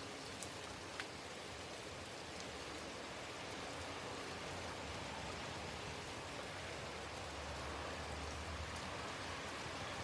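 Rain falling steadily as an even hiss, with a couple of sharp drip ticks about a second in.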